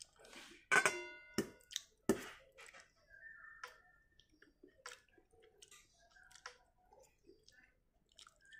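Spaghetti in tomato sauce being eaten close to the microphone: wet chewing and mouth noises with irregular sharp clicks. A short ringing sound comes about a second in.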